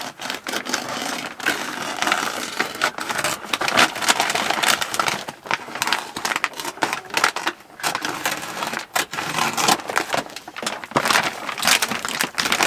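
Scissors snipping along the seam of a stiff woven grain sack, a busy irregular run of crunchy cuts mixed with the sack crinkling and rustling as it is handled.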